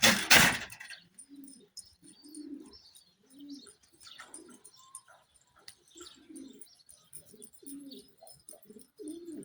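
Domestic pigeons cooing over and over in short, low, rolling calls, with faint high chirps among them. A loud rustling burst in the first second is the loudest sound.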